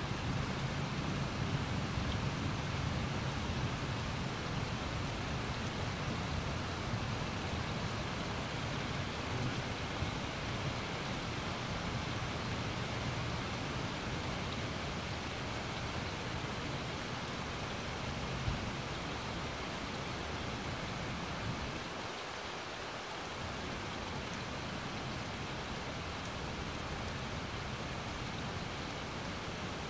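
Steady rain falling on grass and trees: an even, unbroken hiss. A low rumble sits under it in the first half and fades away.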